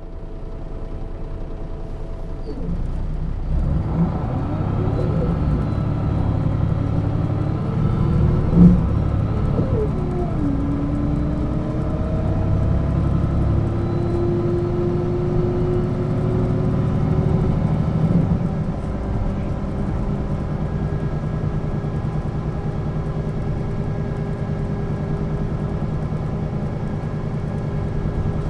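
1996 Setra S 315 UL bus's engine and ZF gearbox pulling away and accelerating: the note climbs, drops at a gear change about ten seconds in, a whine rises again with speed, and from about nineteen seconds it settles into a steady run. A single sharp knock sounds about nine seconds in.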